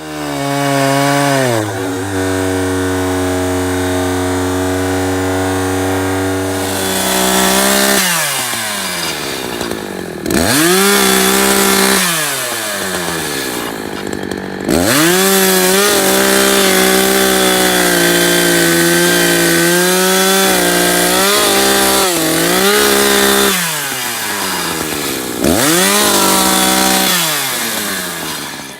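Two-stroke chainsaw idling for several seconds, then revved to high speed and held there while cutting wood. The revs drop off and climb back up about four times.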